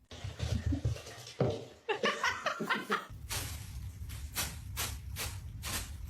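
A person laughing. About three seconds in, the laughter gives way to a run of breathy, noisy pulses about twice a second over a low rumble.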